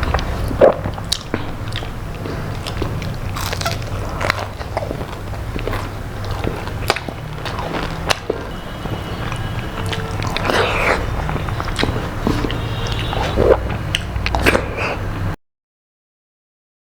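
Close-up eating sounds: biting and chewing crispy fried food, with short crunches and mouth clicks scattered throughout over a steady low hum. The sound cuts out completely near the end.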